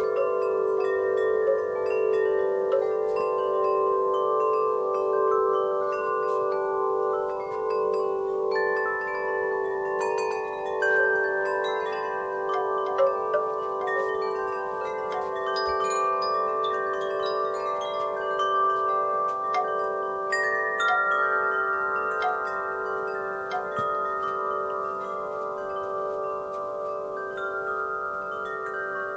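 Wind chimes stirred by a breeze, their tubes struck irregularly so that many long ringing tones overlap and sustain.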